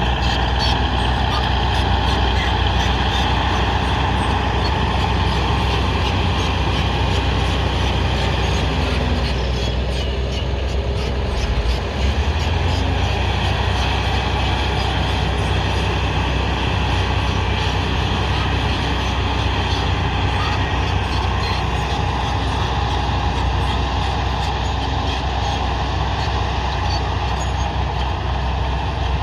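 Heavy earthmoving machine's diesel engine running steadily under work.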